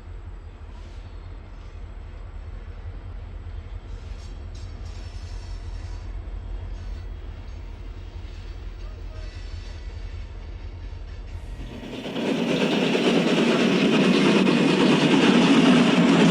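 Steam train running: a steady low rumble, then about twelve seconds in a sudden, much louder steady rush of noise.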